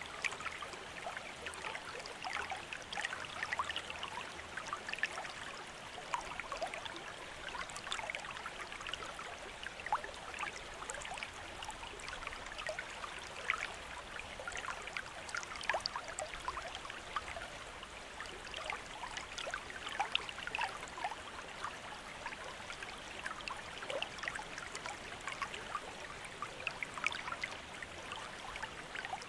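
Water from a bamboo fountain trickling and splashing steadily into a basin, with many small, quick splashes.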